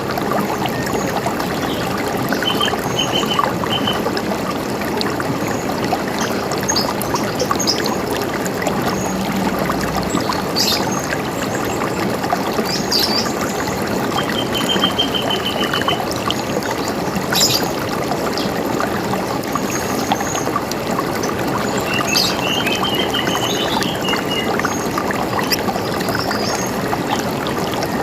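River water running steadily, with birds calling over it: short repeated chirps and a few high trills at intervals.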